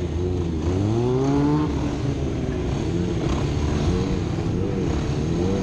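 Sportbike engine revving: its pitch climbs from about half a second in to near two seconds, then wavers up and down with the throttle.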